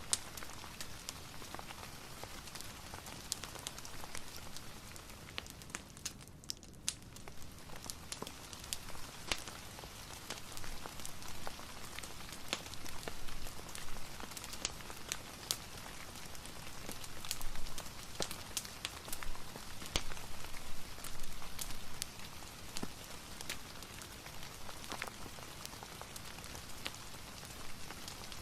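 Rain and fireplace ambience: a steady hiss of rain with frequent short, sharp crackles and pops.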